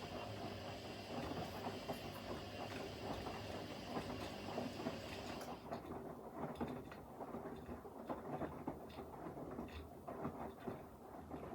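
Front-loading washing machines mid-wash: the drums turn the wet laundry with a busy run of small knocks and clicks over a motor hum. A steady high whine stops about halfway through, and the tumbling stops near the end as a drum pauses.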